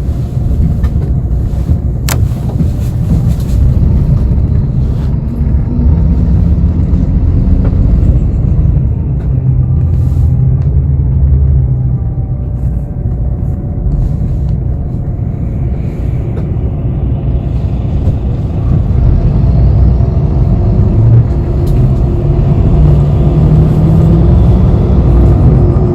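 Inside a moving bus: a steady low engine and road rumble, with the engine's hum shifting in pitch as the bus changes speed. There is a single sharp click about two seconds in.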